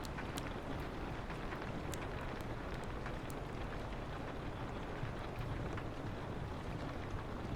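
Steady rain on a window, an even hiss, with a few sharp wood-fire crackles from a fireplace popping out of it now and then.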